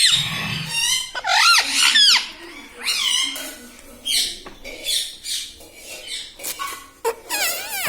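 Pet ringneck parrot giving a series of about six short, high-pitched, shrill calls and squawks with short pauses between them.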